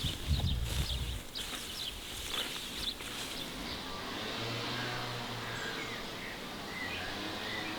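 Outdoor rural ambience with birds chirping, a few clicks and rustles in the first three seconds, and a low steady hum starting about halfway through.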